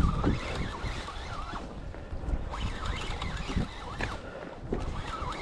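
Wind buffeting the microphone out on open water, with gusty thumps, while many short high chirps glide up and down throughout.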